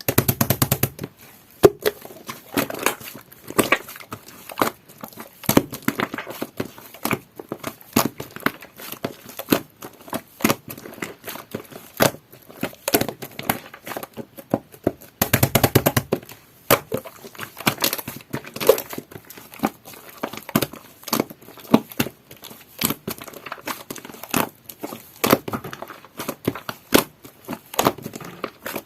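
Slime mixed with shaving foam being squeezed and kneaded by hand, making a dense run of small crackling pops and sticky clicks, busiest near the start and again about halfway through.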